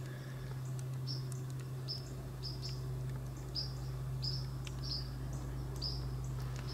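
A small bird's sharp, high chip notes repeated about every half second, over a steady low hum.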